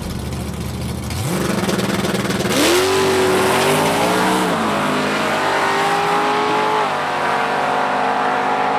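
Drag-racing engines accelerating hard at full throttle. The engine note climbs from about a second in and drops back at gear changes a few times.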